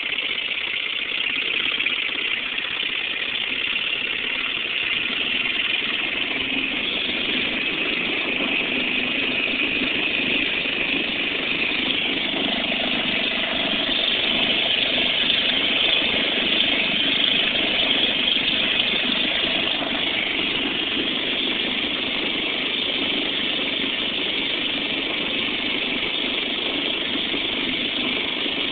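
Vintage 3.5 hp Elgin two-stroke outboard motor running steadily after restoration work, with its engine note swelling a little louder about halfway through.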